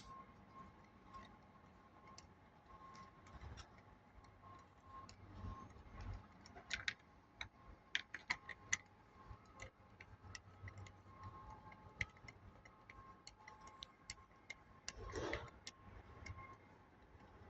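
Faint, irregular clicks and taps, like small handling noises, over a faint steady high hum.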